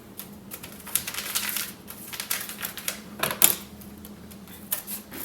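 A paper packet of chili seasoning mix crinkling and rattling as it is opened and shaken out over the browned ground beef: quick, irregular clicks and crackles, thinning out after about three and a half seconds.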